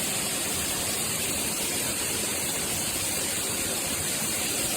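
Rain shower head running, its water falling in a steady, even rush.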